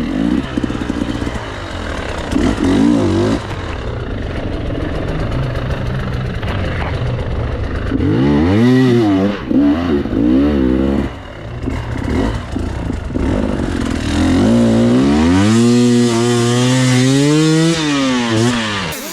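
KTM EXC 300 two-stroke dirt bike engine revving up and down in bursts, with a longer rev that climbs about fifteen seconds in and drops just before the end.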